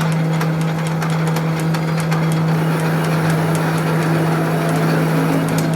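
A workshop machine running steadily: a strong, even hum with a few sharp ticks scattered through it.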